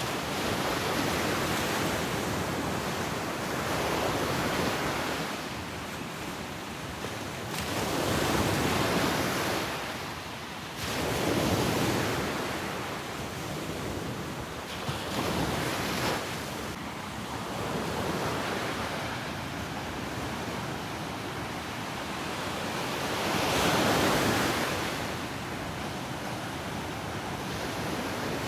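Ocean surf breaking on a beach: waves surge in and wash back, with a louder swell every few seconds.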